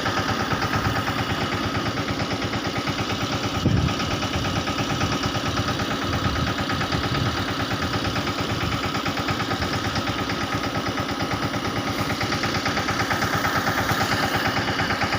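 Mahindra Yuvraj 215's single-cylinder diesel engine running steadily with a rapid, even beat while it powers the sprayer during spraying. A single thump comes about four seconds in.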